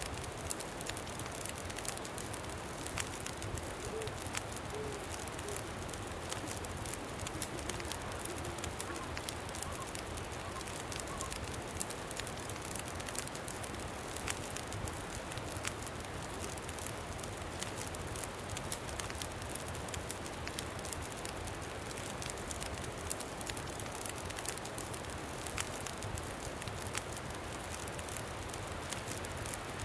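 Campfire crackling, with sharp little pops scattered all through, over a steady rush of wind. A few faint, brief tones come in between about four and eleven seconds in.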